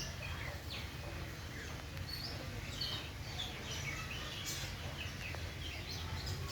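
Several small birds chirping, short scattered calls coming and going, over a steady low background rumble.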